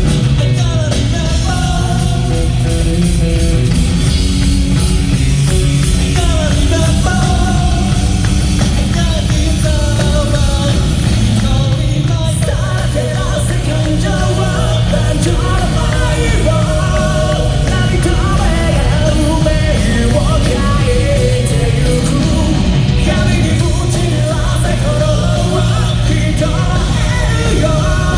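Live J-rock band performing a song: a lead vocal sung over a full rock band of guitars, bass and drums, steady and loud throughout.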